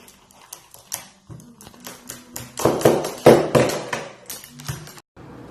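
A quick, irregular run of sharp taps and clicks, densest and loudest in the middle, cut off suddenly about five seconds in and followed by a steady hiss.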